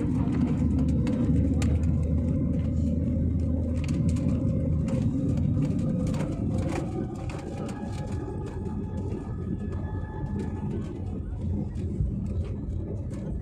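Airliner jet engines running, heard from inside the cabin as a steady deep rumble with frequent small rattles. A tone rises in pitch about six seconds in and levels off a few seconds later.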